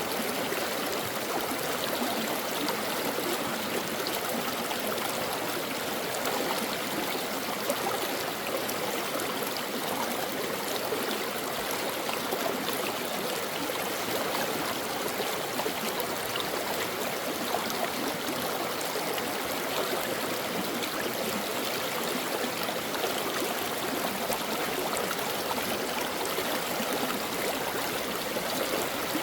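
Stream water flowing steadily, an even, unbroken rush of water.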